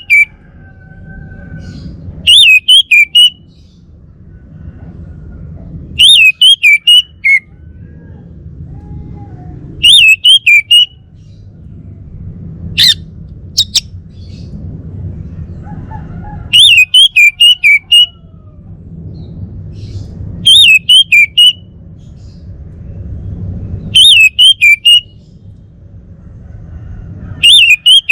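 Male orange-headed thrush singing: short, very loud phrases of four or five quick whistled notes, repeated about every four seconds, with a longer pause in the middle broken by one sharp high note. A steady low rumble lies under the song.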